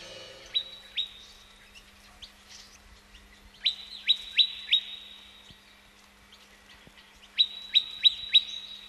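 Bird chirping: quick, sharp downward-sweeping notes in short bursts, two, then four, then four more.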